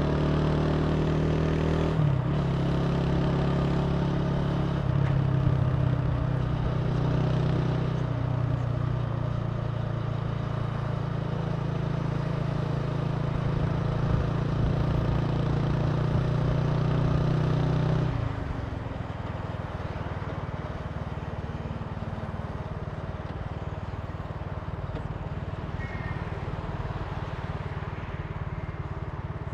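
Italika TC300 motorcycle engine running steadily under way, with shifts in its note about two and five seconds in. About 18 seconds in the engine note drops away and the sound turns quieter and more even, as when the throttle is closed.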